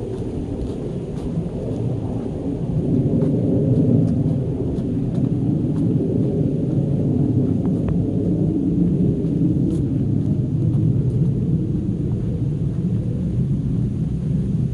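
Rushing water of a mountain valley stream, a steady low roar that swells slightly about three seconds in.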